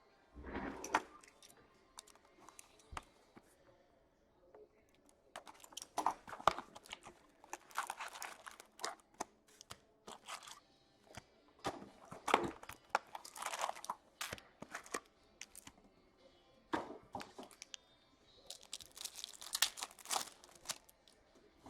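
Foil hockey card pack wrappers being torn open and crinkled, in several bursts of tearing and rustling with short quiet gaps between.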